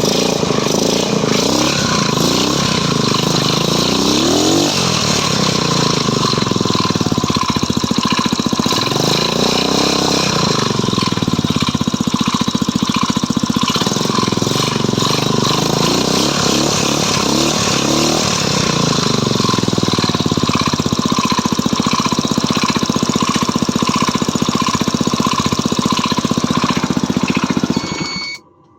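Stels Kapitan's 161QMK four-stroke engine running, with the revs rising and falling three times, then switched off near the end. The owner is chasing a knock in this engine.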